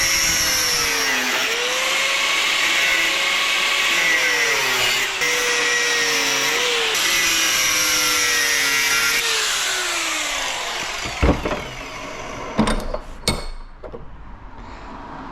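Handheld power drill running for about ten seconds, its pitch sagging and recovering several times under load, probably backing out screws from a scrapped air-filter motor. It stops, followed by a few sharp knocks of metal parts.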